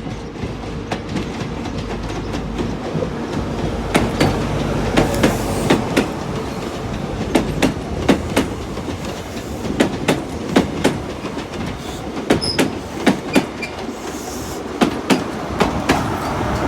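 Wheels of a Great Western Railway HST 'Castle' set with Class 43 power cars clacking over rail joints and pointwork as the train runs slowly into the platform. The sharp clacks come in irregular pairs over a steady hum from the train.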